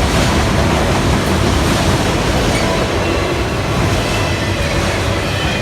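Freight train cars rolling past, a loud, steady rumble and rattle of steel wheels on the rails.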